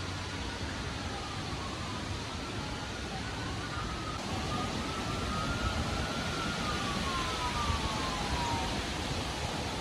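Steady gusty wind noise, with a faint siren wailing slowly up and down behind it.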